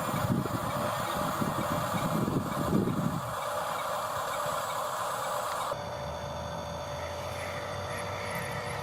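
Electric motors and gearboxes of Huina RC construction toys running with a steady whir, with a rougher low rumble in the first three seconds that then stops. The sound changes abruptly about six seconds in.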